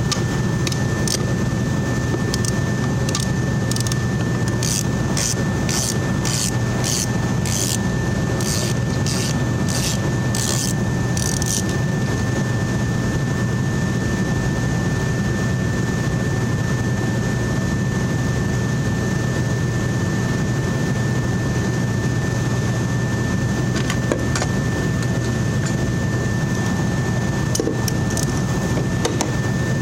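A steady machine hum with a constant high-pitched whine. For roughly the first twelve seconds there is also a run of evenly spaced sharp clicks.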